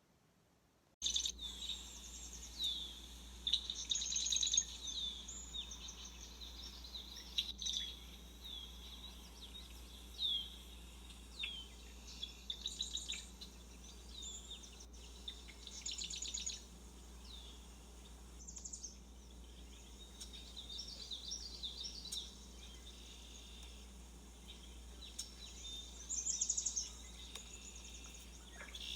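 Small birds chirping and calling: many short, high notes, several of them quick downward sweeps, starting about a second in. A steady low rumble runs underneath.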